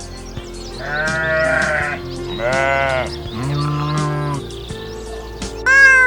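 Bleating farm animal giving three wavering calls, each about half a second to a second long, followed near the end by a louder cry that falls in pitch.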